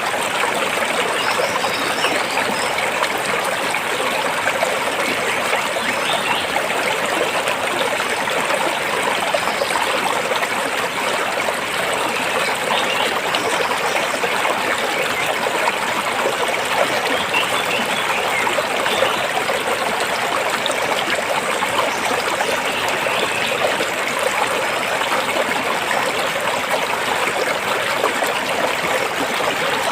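A stream flowing steadily over and between rocks, a constant rushing with small trickles and burbles.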